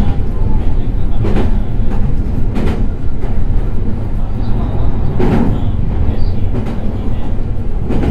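Meitetsu 3100 series electric train running: a steady low rumble of wheels on rail, with a few sharp knocks from the wheels at irregular spacing.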